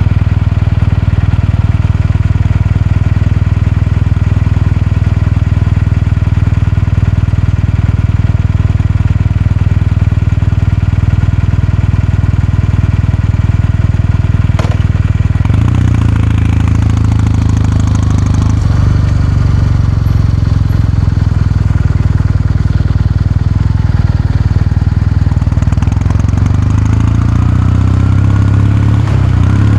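Exhaust note of a Kawasaki Meguro K3's air-cooled parallel-twin engine, running steadily for about half the time. It then turns deeper and louder, with the pitch rising briefly twice as the revs climb, the second time near the end.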